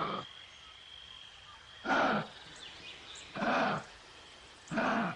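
A large animal calling three times, short calls about a second and a half apart.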